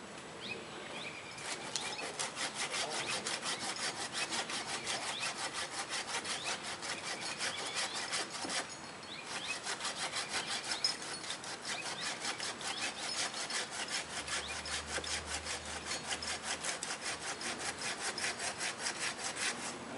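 Handsaw cutting through a tree limb in quick, even back-and-forth strokes, with a brief pause about halfway through.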